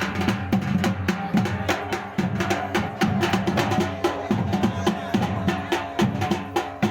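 Drums beating a fast, steady rhythm, several strokes a second, with deep low strokes.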